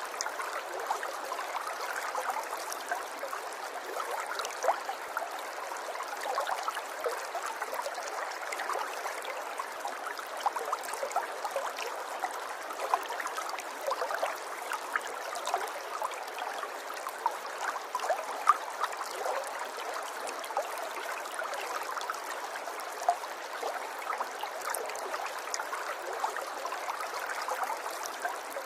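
River water running over stones, a steady babbling flow with many small splashes and trickles and little low rumble.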